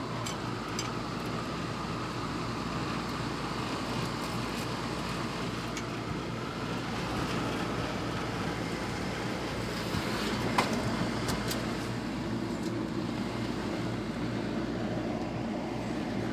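Home air conditioner's outdoor unit running steadily, compressor and condenser fan humming, now that its failed start capacitor has been replaced. A few light clicks, and one louder sharp knock about ten seconds in.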